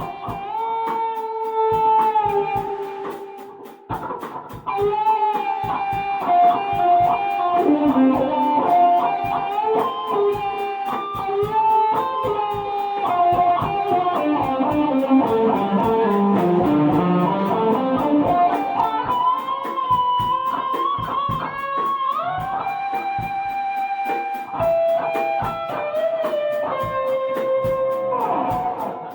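Electric guitar played alone: sustained notes with pitch bends and slides, and a fast descending run near the middle of the passage.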